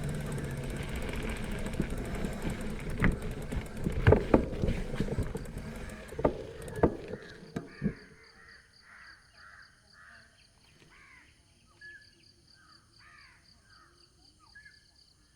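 A loud rumbling noise fades away over the first half, broken by several sharp knocks. Then crows caw in a steady series of short calls, with a faint high pulsing hum beneath.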